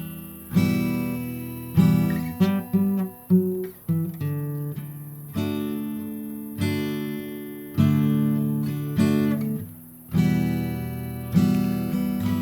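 Acoustic guitar music: strummed chords, each struck sharply and left to ring and fade before the next.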